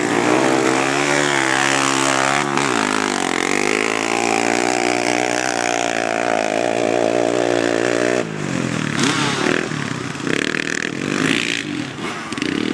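A motor vehicle engine running, its pitch dropping and climbing again about three seconds in as it is revved. About eight seconds in the steady engine note breaks off abruptly and gives way to a rougher, uneven engine sound.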